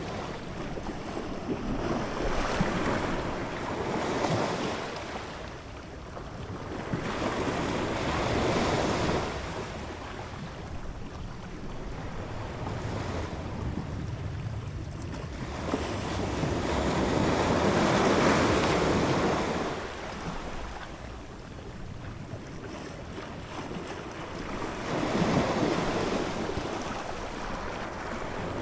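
Ocean waves surging and washing in slow swells, each building and fading over a few seconds, about four in all, over a steady hiss of surf.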